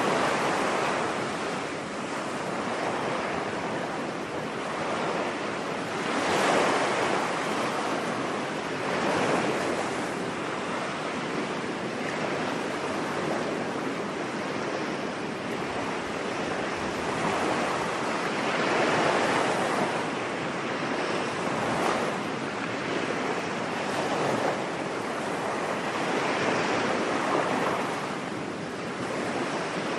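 Ocean waves washing onto a beach, a steady surf that swells and eases every few seconds.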